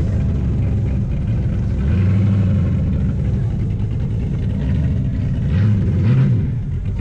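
Car engine running with a deep exhaust rumble. Its pitch briefly rises and falls in a short rev about six seconds in.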